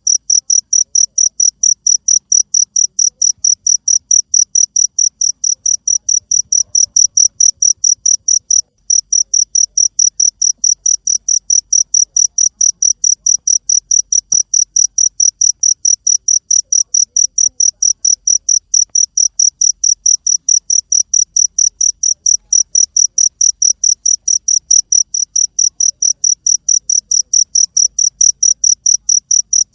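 A cricket chirping in a fast, even, high-pitched rhythm of about four chirps a second, with a brief break about nine seconds in.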